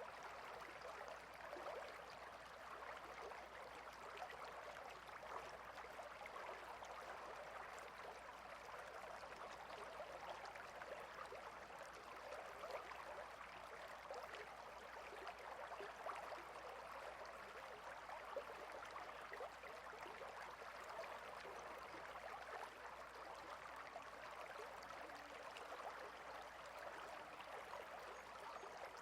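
Small stream flowing over stones, a steady trickling and babbling.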